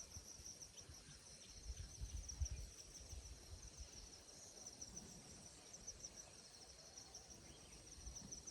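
Faint, steady, high-pitched chirring of insects in rapid even pulses, with low rumbles of wind or handling on the microphone, strongest about two seconds in.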